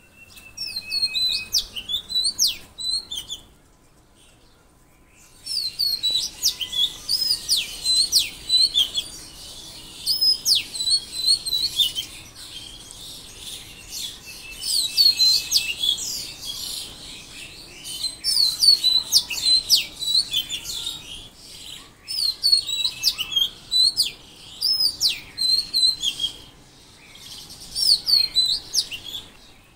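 Songbirds chirping in quick, repeated high phrases, with a short lull about four seconds in before the chirping resumes densely.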